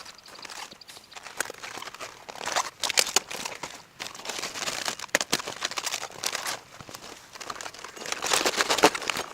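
Irregular rustling and crinkling with scattered short clicks, in uneven spells that grow loudest near the end.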